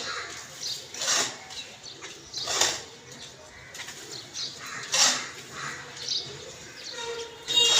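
Bathing birds splashing and flapping their wings in water, in short bursts a second or two apart.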